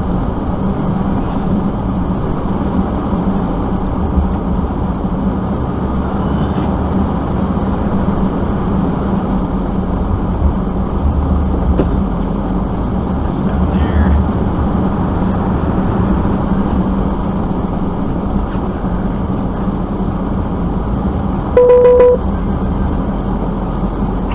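Vehicle engine running steadily at idle, with one short car horn honk near the end.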